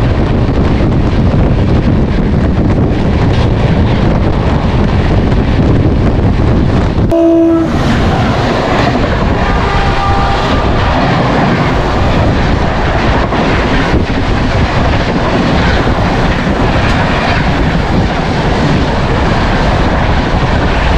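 Two Indian express trains at speed on adjacent tracks, heard from an open coach doorway: a loud, steady rush of wheels on rail and wind. About seven seconds in comes a short horn note as the Patna Rajdhani Express rushes past.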